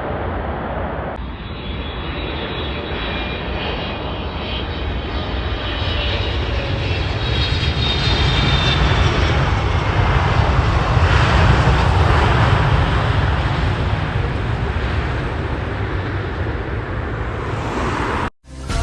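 Jet airliner's engines passing: a steady rumble with a faint high whine that swells to its loudest about halfway through and then eases off. The sound cuts off abruptly just before the end.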